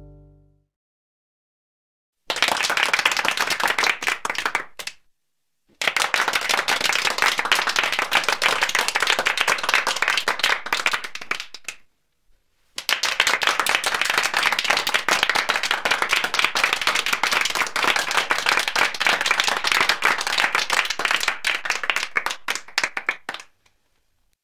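Chopped onion and vegetables frying in hot oil in a pan, a dense crackling sizzle that cuts out twice for a moment.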